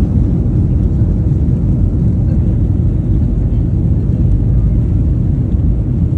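Loud, steady low rumble without pitch, starting abruptly at a cut.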